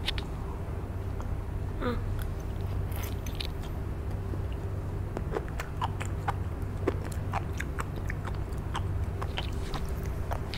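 A child biting and chewing fresh sea grapes (grape seaweed), the crisp beads breaking in the mouth as scattered small clicks and pops over a steady low hum.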